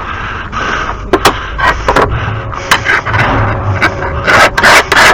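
Repeated scraping strokes of metal on a lawn mower blade, worked to take weight off its heavy end and balance it; the strokes come faster and louder near the end.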